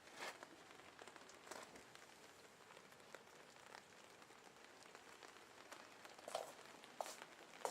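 Faint light rain: a soft steady hiss with scattered sharp drop ticks, a few louder ones near the end.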